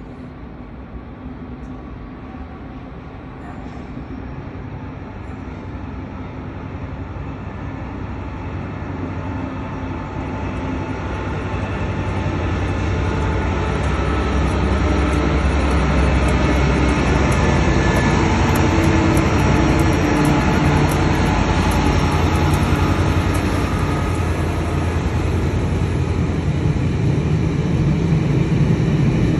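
Freight train hauled by diesel locomotive 59203: the engine's low drone grows steadily louder as it approaches and passes below. It then holds as the steady rumble of hopper wagons rolling over the rails, with scattered high clicks and a faint squeal from the wheels.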